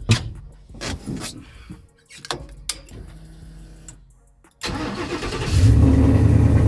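A tuned E85 burnout truck's engine cranking and catching about four and a half seconds in, then running loud and steady; it fires up strongly at once. Before it, a few sharp clicks and knocks.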